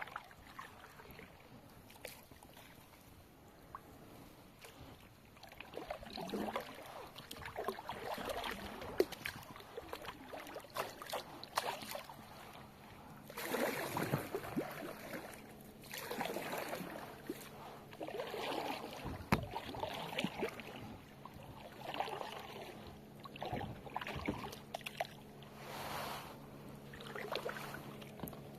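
Kayak paddle strokes dipping and splashing in river water. From about halfway through, a stroke comes roughly every two seconds, with occasional knocks in between.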